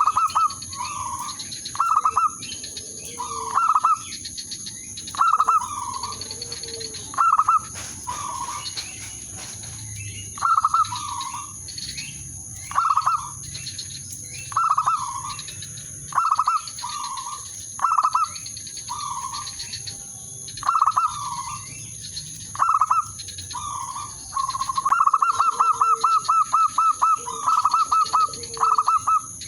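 Zebra dove (perkutut) calling over and over, short cooing phrases every second or two, breaking into a quick run of rapid notes near the end. A faint steady high whine sits behind it.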